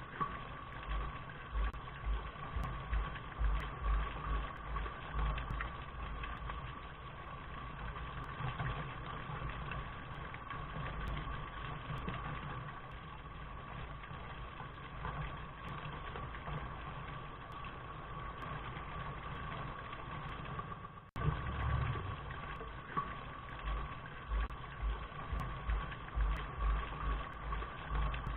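Steady rain ambience recording: an even hiss with an uneven low rumble underneath. The sound drops out for a moment about 21 seconds in and starts again, where the loop restarts.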